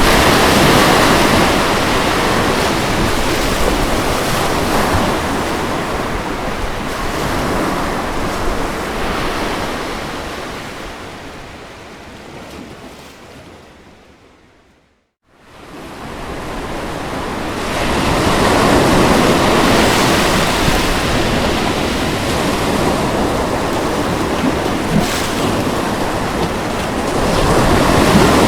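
Ocean waves washing onto a beach as a steady surf noise. About halfway through, the surf fades down to total silence, then swells back up to full level within a few seconds.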